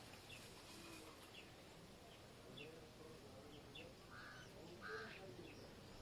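Near silence with faint, scattered short bird chirps; two brief, slightly louder calls come about four and five seconds in.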